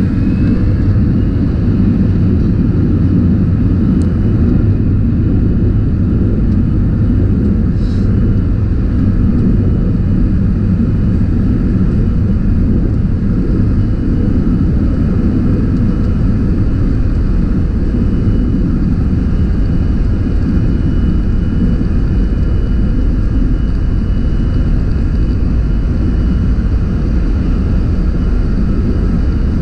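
Cabin noise of an Airbus A321-200 jet airliner in flight: a loud, steady rumble of engines and airflow, with a faint high whine that rises and levels off about a second in.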